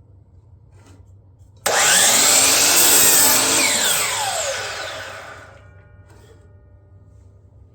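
DeWalt miter saw motor switched on suddenly, running loud for about two seconds, then winding down with its pitch falling until it stops.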